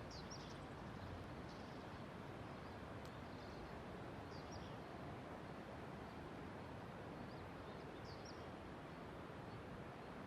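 Faint steady outdoor background hiss with a few short, high bird chirps scattered through it, and a single faint tick about three seconds in.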